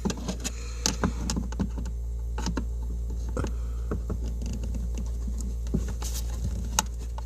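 Scattered small clicks and scrapes of a flathead screwdriver prying at a plastic dashboard clip, over a steady low hum.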